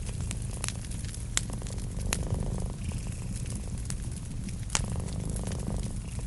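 Wood fire crackling, with several sharp pops, over a cat's steady low purr.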